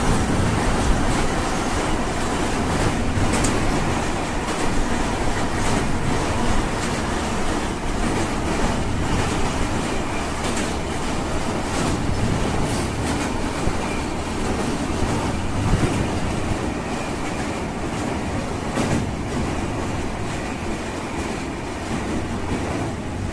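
Train rolling across a river bridge: a steady rumble with scattered clacks of wheels over rail joints, slowly getting quieter.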